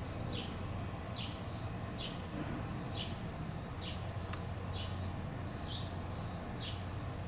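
A small bird chirping over and over, short falling chirps about one or two a second, over a steady low hum. There is a single sharp tick about four seconds in.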